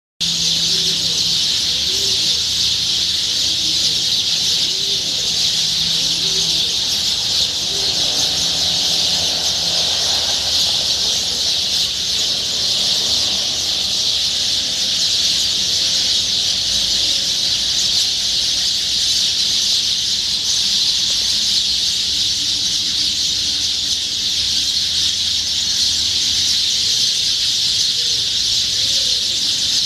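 Many birds chirping at once in a dense, continuous chorus, high-pitched and steady throughout.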